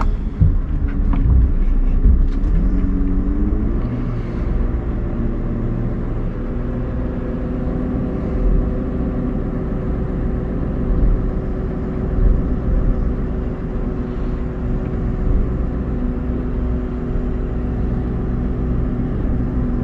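Scania R580's V8 diesel engine running, its revs climbing over the first few seconds and then held steady.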